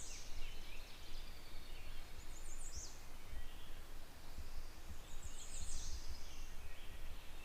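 Songbirds singing over wind rumbling on the microphone: two high, quick, down-slurred trilled songs, one about two and a half seconds in and another about six seconds in, with softer chirps between.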